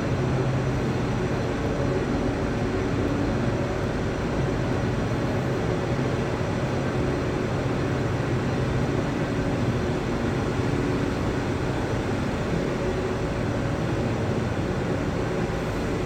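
Steady industrial drone of a running coal-fired power plant, an even rushing noise with a low hum underneath and no change throughout.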